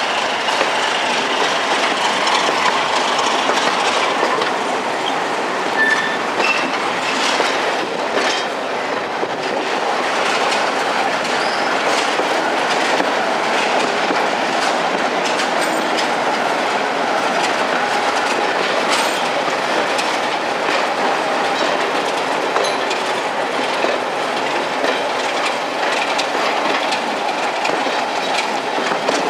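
Passenger coaches of a diesel-hauled train rolling along, wheels clicking over rail joints, with a few short wheel squeals on curved track. Heard close up from an open carriage window.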